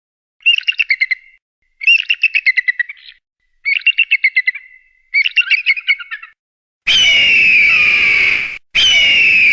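Eagle calls: four short bursts of rapid, high chittering notes, then two long high screams that slide down in pitch, each about two seconds long.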